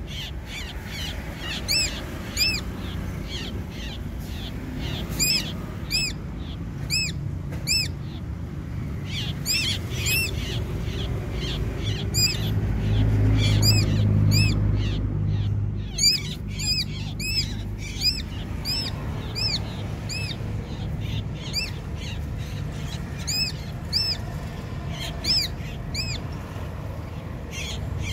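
A bird calling over and over: short, arched, ringing chirps, often in quick groups of two or three. A low rumble runs underneath and grows loudest about halfway through.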